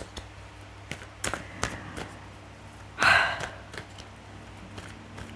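Soft clicks and taps of cards being handled, with a single breathy sigh about three seconds in, the loudest sound here.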